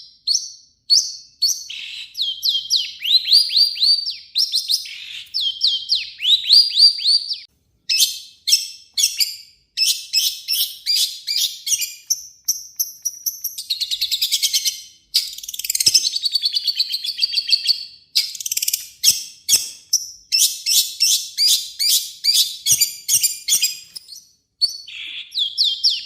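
Long-tailed shrike (cendet) singing a loud, harsh, fast song: trains of rapid repeated notes and quick falling sweeps, in phrases broken by short pauses.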